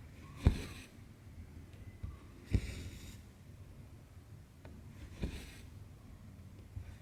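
Cross-stitch needle popping through taut 18-count Aida cloth, each pop followed by the cotton floss drawn through with a short rasp, three times about two to three seconds apart.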